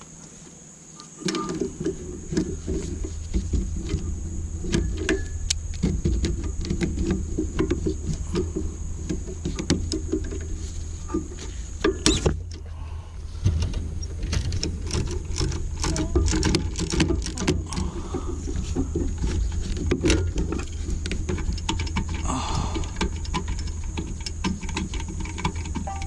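Hand tools clicking and rattling against engine metal as bolts on the alternator are worked loose, with a steady low hum underneath that sets in about a second in.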